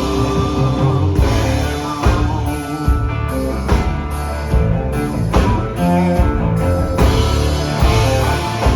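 Live rock band playing an instrumental passage without singing: guitar over bass and a drum kit, with regular drum hits.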